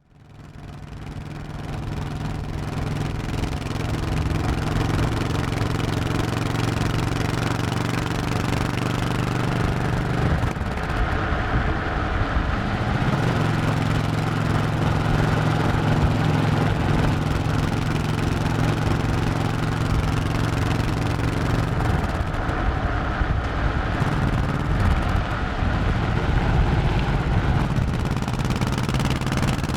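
Honda 1100cc V-twin motorcycle engine running, fading in over the first couple of seconds. Its steady low tone breaks and changes pitch about ten seconds in and again a little past twenty seconds.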